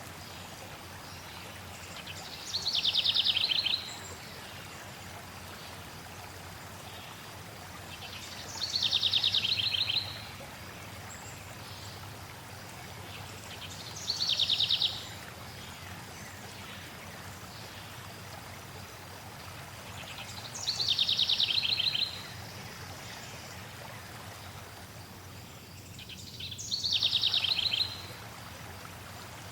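A songbird sings the same short, rapid, high trill five times, one about every six seconds, over the steady rush of flowing water.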